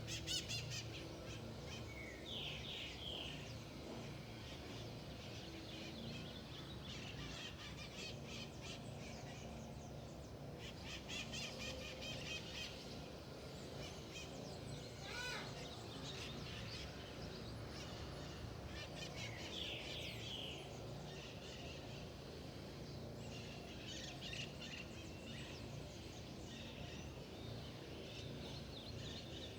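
Several wild birds calling and singing, with rapid trills and short chirps overlapping, over a steady low hum.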